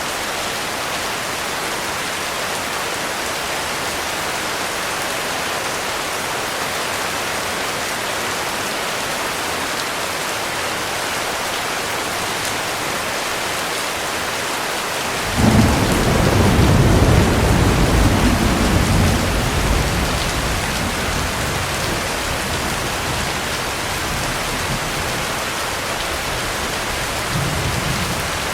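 Heavy rain falling steadily, with a sudden crack of thunder about halfway through that rumbles and fades over several seconds, and a fainter rumble near the end.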